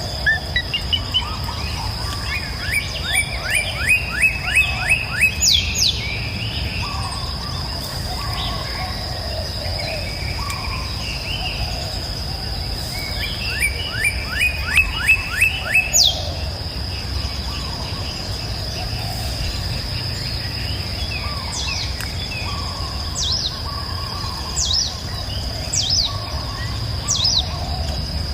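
Songbirds singing over a steady high-pitched insect drone and a constant low rush. One bird sings a phrase of about ten quick rising notes ending in a high sweeping note, twice, about ten seconds apart. Shorter high notes follow near the end.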